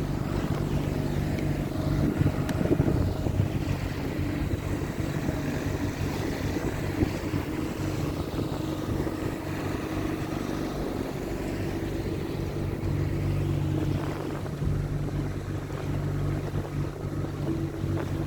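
Small hire motorboat's engine running steadily with a low hum, with wind buffeting the microphone.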